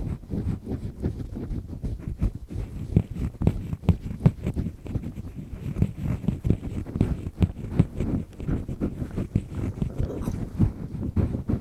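Double disc-type ear pick scraping firmly inside an ear, close to the microphone: a quick, uneven run of short rough scratching strokes.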